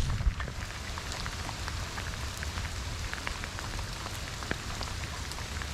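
Heavy rain pouring down, with many close raindrops ticking sharply over a steady hiss and a low rumble underneath. One louder knock just after the start.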